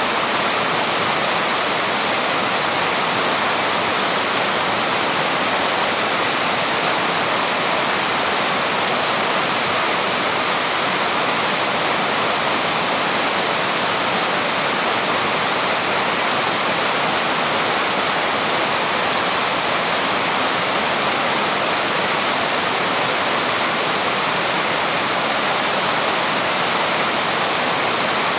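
Small waterfall pouring steadily over rocks, a constant even rush of falling water with no breaks.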